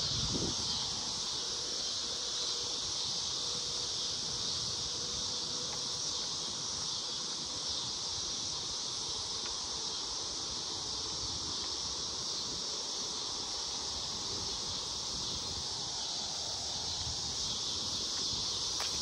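Steady, high-pitched chorus of insects buzzing in summer woods, unbroken throughout.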